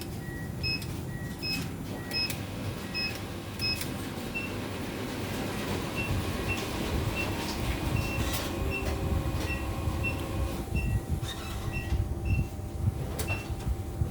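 Short electronic beeps repeating about twice a second, alternating between two pitches, over a steady mechanical running noise with a few clicks.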